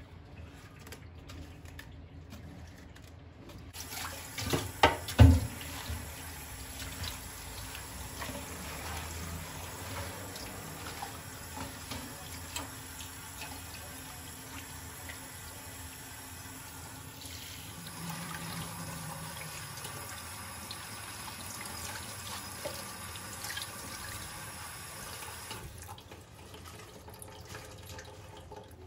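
Kitchen tap running into a sink, with a few loud clunks just after the water comes on. The water shuts off after about twenty seconds.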